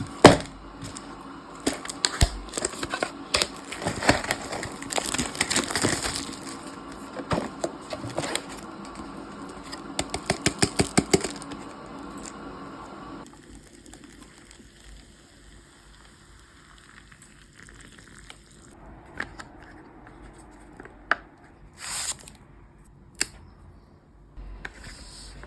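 Kitchen food-preparation sounds: busy clatter and rustling with a quick run of sharp taps in the first half, then quieter with a few isolated sharp clicks and clinks.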